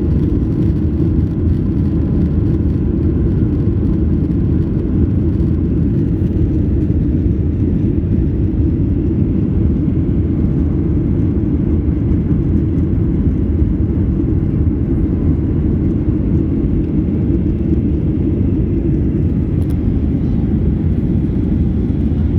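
Steady low rumble of a Boeing 737-800's CFM56-7B turbofans and airflow, unchanging throughout.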